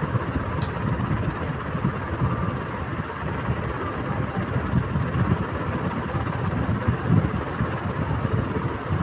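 Crompton electric fan running steadily, a rush of air with an uneven low rumble, showing the little noises its owner reports as an issue. A single short, sharp tick sounds about half a second in.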